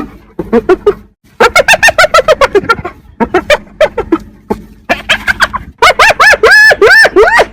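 Hyena giggling: fast runs of short, high yelps that each rise and fall, coming in several bouts with brief pauses, loudest near the end.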